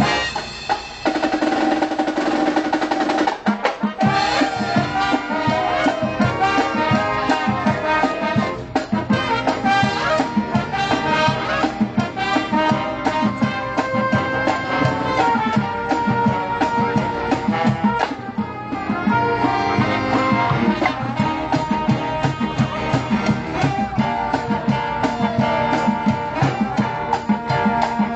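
Live band playing with brass horns and a drum kit. A held brass chord opens, and the drums come in with a steady driving beat about three and a half seconds in.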